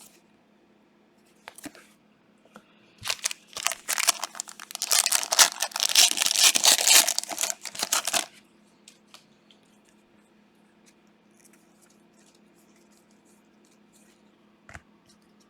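Plastic trading-card packaging being torn open and crinkled: a dense crackling that starts about three seconds in and lasts about five seconds. A faint steady hum and a few light clicks sit under it.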